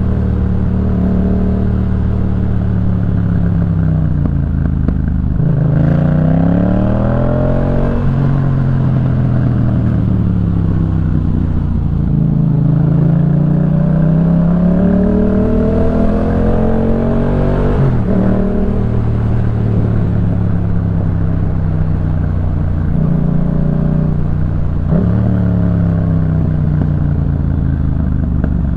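2018 Yamaha MT-07's parallel-twin engine through a Jeskap K4 full aftermarket exhaust, running under way. The revs climb several times as it accelerates, and the pitch falls or steps sharply at gear changes.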